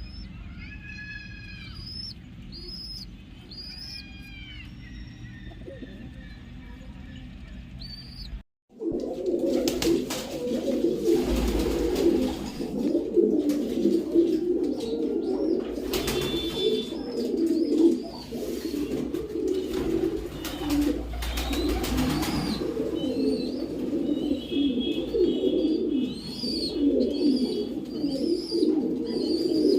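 Many domestic pigeons cooing together in a loft, a dense steady churn of overlapping coos, with short high chirps above it. The cooing is fainter at first, then after a sudden cut about eight seconds in it becomes much louder.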